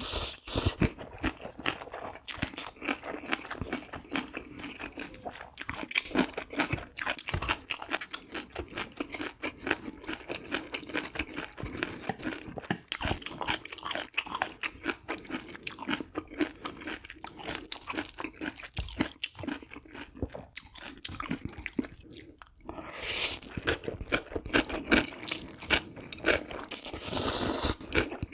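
Close-miked eating: continuous crunching and chewing of food, with a couple of louder, hissier bursts near the end.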